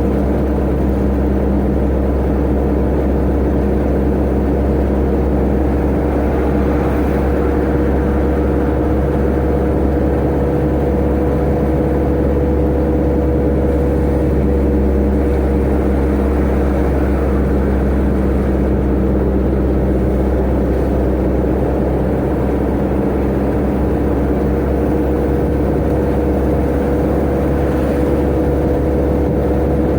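Tata Ace mini truck's turbo engine running at a steady speed with road and drivetrain rumble, its pitch holding nearly constant with only a slight drift.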